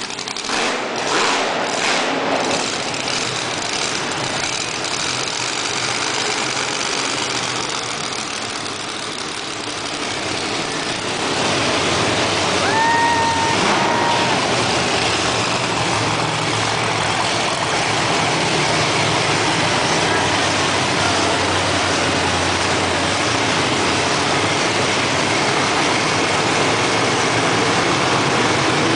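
Monster truck engines running loud and continuous, growing louder about a third of the way in, with a brief steady tone about 13 seconds in.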